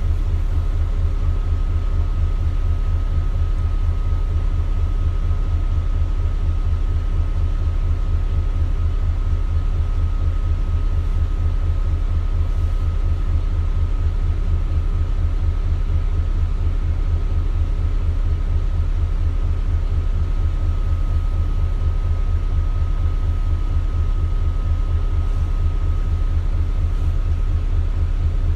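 Diesel engine of an Isuzu Erga KL-LV280L1 city bus running steadily, heard from inside the cabin. It makes an even low throb that holds one pace, with a thin steady tone above it.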